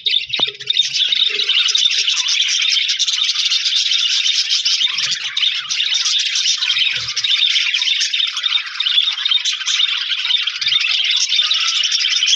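A flock of budgerigars chirping and warbling together in a dense, unbroken chatter.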